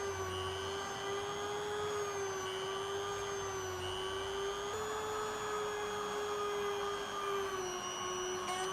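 A small electric motor running with a steady whine, its pitch wavering slightly and stepping up a little about halfway through.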